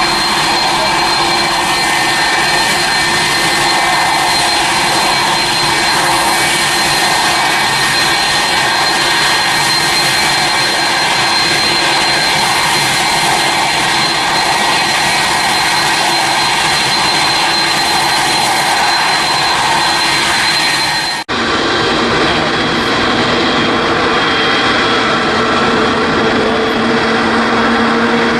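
Jet airliner engines running steadily: a broad rush of noise with a thin high whine over it. About three-quarters of the way through it cuts off abruptly and a different steady engine sound with lower tones takes over.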